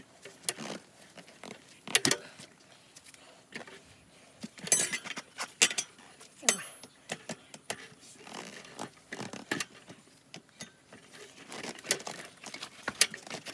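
Hand tools clinking and knocking against a motorcycle wheel rim as a tyre bead is levered onto it, in irregular metallic clicks and knocks, the loudest about two seconds in and again near five seconds.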